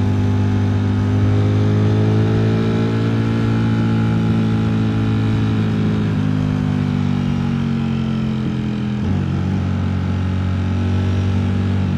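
Ducati Streetfighter V4 S's V4 engine running as the bike is ridden, its note rising gently over the first few seconds, then easing off, with a dip in pitch about nine seconds in.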